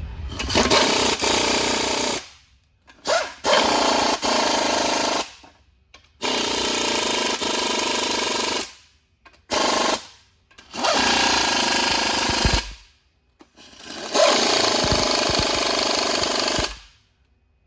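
Impact wrench running in seven separate runs, two of them brief and the rest about one and a half to two and a half seconds each, tightening the bolts and nuts that hold the bell housing to the transmission case.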